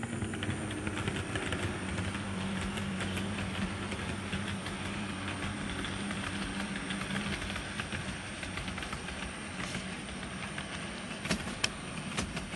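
HO scale model train running on its track: a steady electric motor hum with fast, light clicking from the wheels on the rails, and a few sharper clicks near the end.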